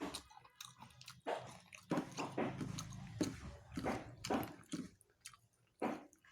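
Close-miked wet chewing and lip-smacking of someone eating pigeon curry and rice, a quick, irregular run of smacks and squishes.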